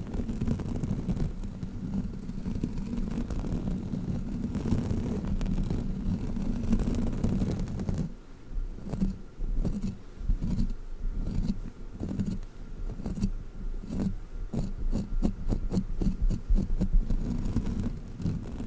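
Fidget crawler toy handled against the microphone: a steady low rubbing rumble, which from about eight seconds in turns into quicker, uneven rubs with many small clicks.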